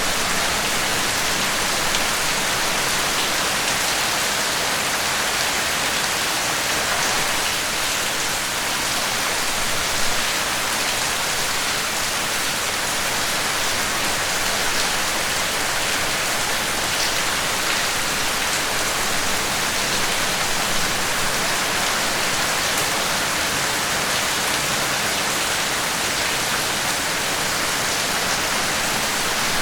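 Steady rain falling, with occasional individual drops ticking.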